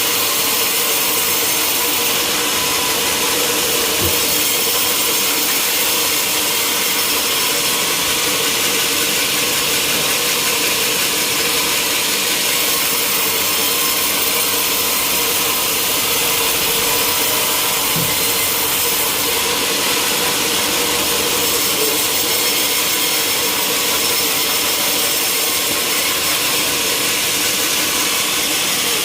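Sawmill saw running steadily through timber, a loud, even, hissing machine noise with no pauses.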